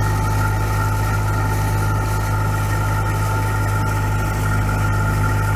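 Perkins 4-108 four-cylinder marine diesel engine running steadily at a constant speed.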